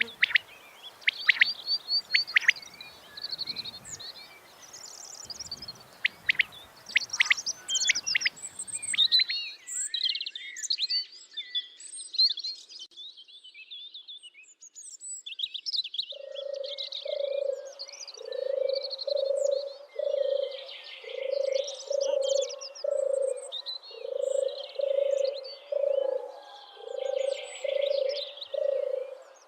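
Small songbirds chirping and trilling. About halfway through, a frog starts croaking in a steady rhythm, about two croaks a second, under the birdsong.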